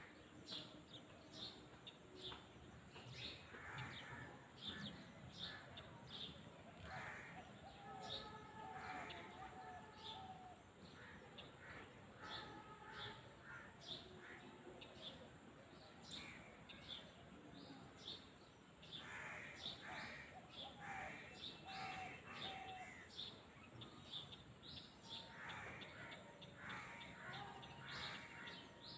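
Faint chorus of several birds chirping and calling, many short calls overlapping throughout.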